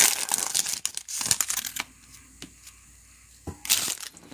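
A trading-card pack wrapper crinkling and tearing open, with sharp clicks, for about the first two seconds. After that it goes much fainter, apart from one more brief crinkle about three and a half seconds in.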